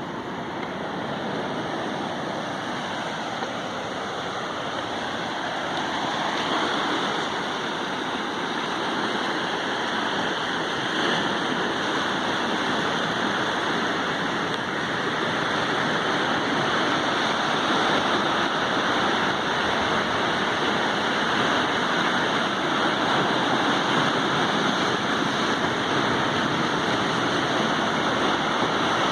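Sea waves: a continuous rush of surf that grows louder over the first several seconds and then stays full.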